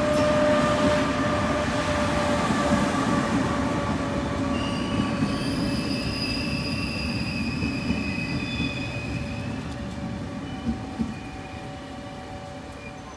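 A train running on rails: a loud rumble that comes in suddenly and slowly fades, with high steady whining tones from the wheels joining about four seconds in.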